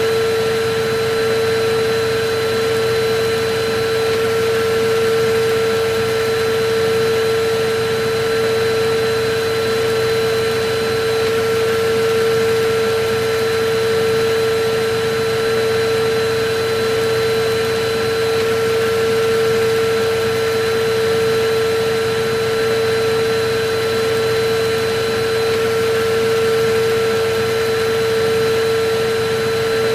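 Electric vacuum cleaner running steadily: a constant motor whine holding one pitch over an even rushing airflow noise, unchanging throughout.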